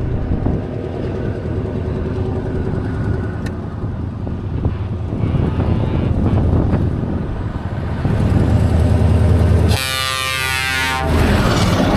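Scania trucks pulling away with a low diesel engine rumble that gets louder as one comes close, then a horn blast of just over a second near the end.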